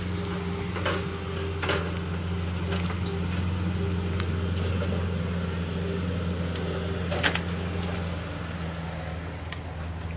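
An engine running steadily with a low hum, with a few sharp knocks and clatter over it, the loudest a little past the middle.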